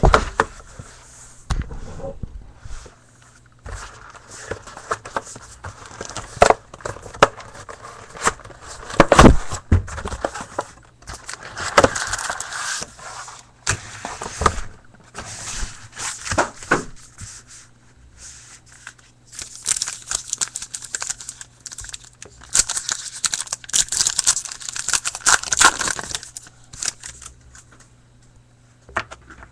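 Hockey card packs being torn open and handled: wrappers crinkling and tearing, with irregular clicks and rustles, busiest a few seconds before the end, over a faint steady low hum.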